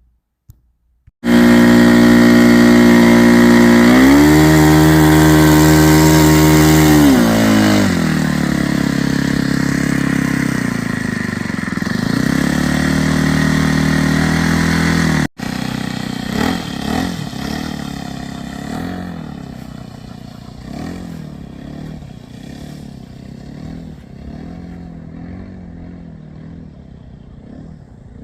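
The engine of a radio-controlled Pitts Special model biplane starts about a second in and runs hard. Its pitch steps up about 4 seconds in and drops back about 7 seconds in. After a break about 15 seconds in it is quieter and wavers in pitch, fading away as the plane flies off.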